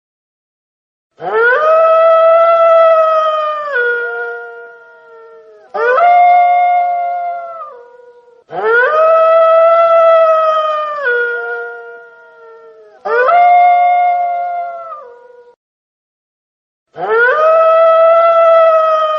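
Wolf howling: five long howls in turn, each rising quickly to a steady high note, then dropping in pitch near its end, with short silences between some of them.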